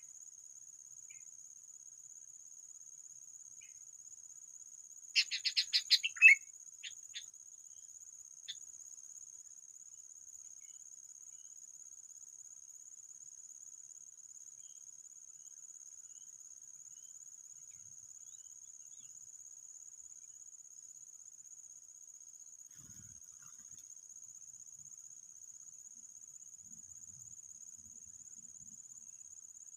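Insect chirring as a steady high-pitched drone throughout. About five seconds in, a rapid burst of loud bird chirps lasts about a second, followed by a few single chirps.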